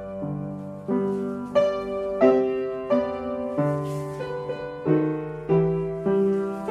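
Piano playing a slow, even ballet-class accompaniment, with a new chord struck about every two-thirds of a second and each one fading before the next.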